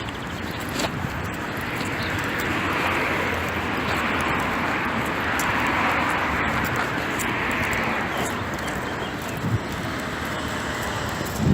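Steady rain with scattered drip-like ticks. A hiss swells up about two seconds in and fades away by about eight seconds.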